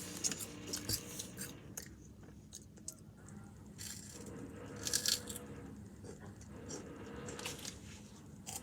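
Chips being crunched and chewed: scattered sharp crunches and crackles, loudest in a cluster about five seconds in.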